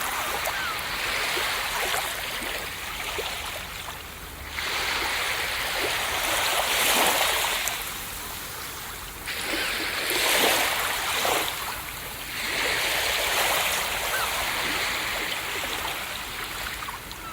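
Ocean waves breaking and washing up a beach: a hiss of surf that swells and eases several times, each surge lasting a few seconds, the strongest about ten seconds in.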